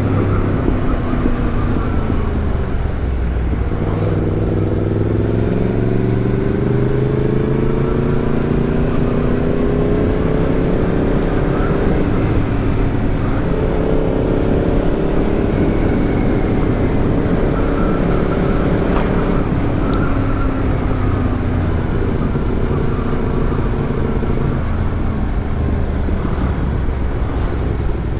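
Yamaha MT-10's crossplane inline-four running through an Arrow aftermarket exhaust while riding, its pitch climbing slowly, breaking briefly about twelve seconds in, climbing again, then falling away over the last several seconds.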